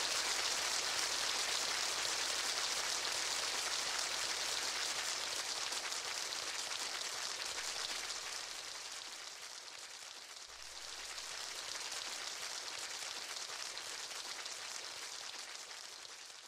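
A steady hiss like falling rain. It dips about ten seconds in, comes back, then fades away at the end.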